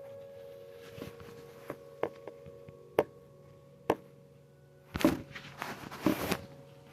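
Sharp plastic clicks and knocks from vacuum cleaner parts being handled during a repair, then two louder clattering, rustling bursts near the end.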